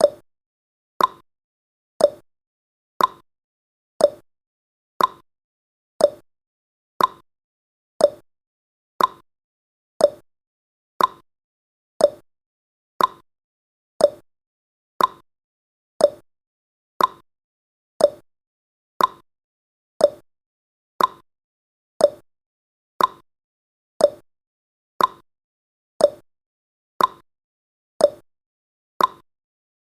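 Clock ticking sound effect of a countdown timer: short sharp ticks exactly once a second, alternating higher and lower in pitch like a tick-tock.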